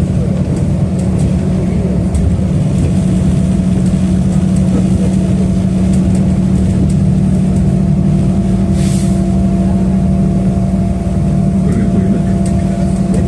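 City bus riding steadily between stops, heard from inside the passenger cabin: a constant hum from the engine and drivetrain with road noise. A brief hiss about nine seconds in.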